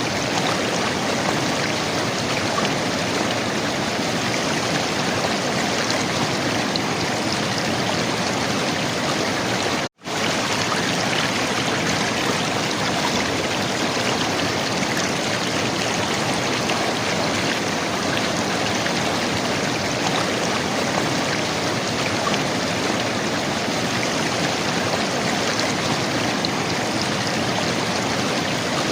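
River water flowing and gurgling, a steady rushing. It cuts out for an instant about ten seconds in, then carries on unchanged.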